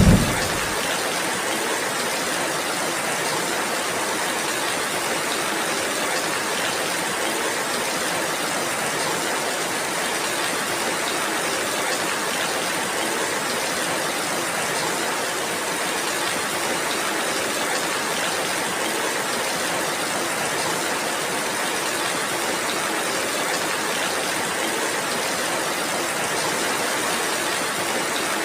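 Heavy rain falling steadily, an even hiss with no pattern or change. A low thunder rumble dies away in the first second.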